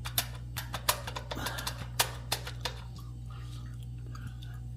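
Quick sharp metallic clicks and clinks of a screwdriver prying parts off a Harley-Davidson Street Glide's heel-toe shift linkage, thickest in the first three seconds, over a steady low hum.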